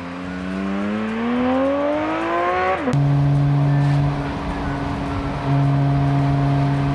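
Porsche 718 Spyder RS's 4.0-litre flat-six engine revving up under acceleration, its pitch rising steadily for about three seconds. It then switches abruptly to a steady note at constant engine speed, easing off briefly about halfway through.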